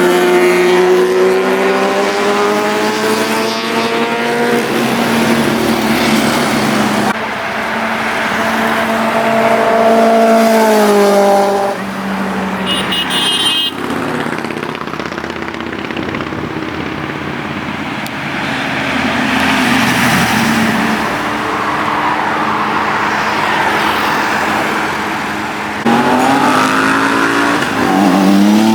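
Superbike engines accelerating hard past at full throttle, their pitch climbing steeply as each bike revs up through the gears. The sound changes abruptly several times from one pass to the next, and a short high-pitched beeping is heard about halfway through.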